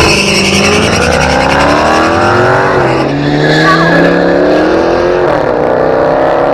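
Truck engine revving hard: its pitch climbs for about two and a half seconds, drops near three seconds in, climbs again, then eases and holds.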